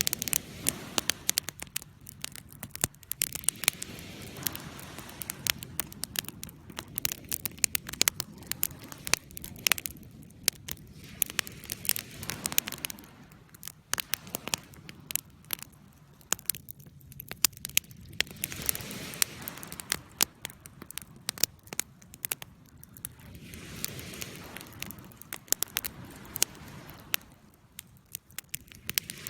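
Wood fire burning in a fireplace, crackling with frequent sharp, irregular pops and snaps over a hiss that swells and fades every few seconds.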